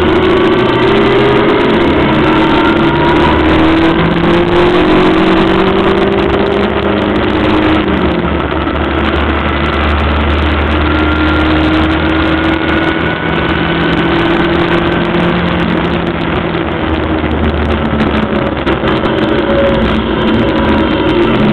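Onboard sound of a Locost's 1300cc engine running at speed on track, its pitch climbing gradually, falling about eight seconds in, then climbing again. Wind and road noise run underneath.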